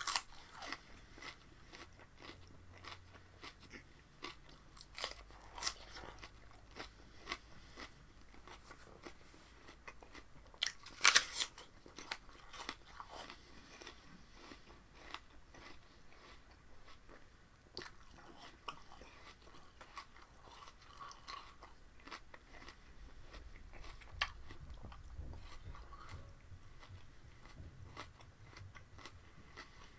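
A person biting and chewing raw spinach stalks: irregular crunches throughout, with the loudest bites in a cluster about eleven seconds in.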